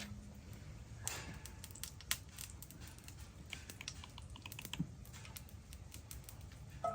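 Beef tallow melting in a hot cast iron pan, giving faint, irregular crackles and ticks.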